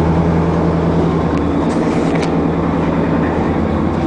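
Isuzu NPR box truck's gasoline engine idling with a steady low hum and a few faint clicks. The engine has a knock and needs repair.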